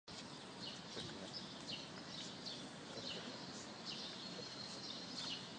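Birds chirping: many short, high, falling chirps, a few each second, over a steady background hiss.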